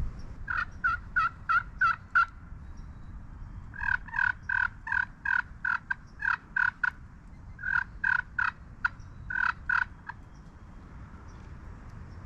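Wild turkey calling in three runs of short, evenly spaced notes, about five a second.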